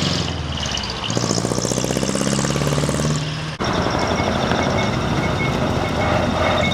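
Large trucks' engines running as the trucks pull away, one after another. The sound changes abruptly about halfway to a rougher, noisier engine. Short repeated high beeps come in near the end.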